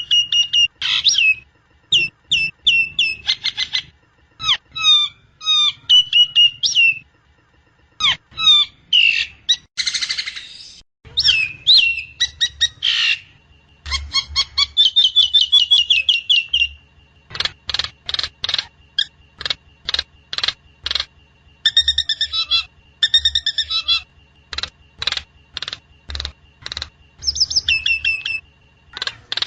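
Jalak nias, an Indonesian starling, singing in quick runs of short whistled and chattering notes broken by brief pauses. About ten seconds in there is one harsh screech, and later a run of sharp clicking notes.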